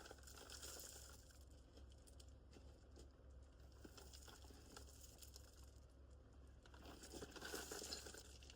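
Near silence: faint rustling and light handling noises over a low steady hum, a little louder near the end.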